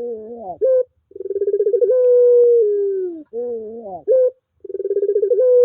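Puter pelung dove cooing its long call, repeated: each phrase opens with a quick stuttering run of notes, swells into a long held coo that drops lower at the end, then closes with a few short rising notes. A lure call of the kind played to set a silent puter calling again.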